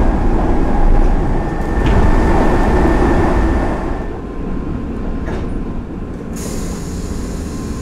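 Hanshin Line express train heard from inside the passenger car: wheels and running gear rumbling on the track with a thin, steady whine, loudest in the first four seconds. After that the rumble is quieter, and a cluster of high, steady tones comes in a little after six seconds.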